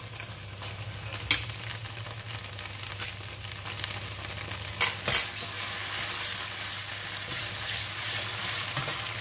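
Red curry paste sizzling in hot oil in a stainless steel wok as it is stirred with a metal spatula, the sizzle growing louder partway through. A few sharp clinks of metal utensils, the loudest about five seconds in.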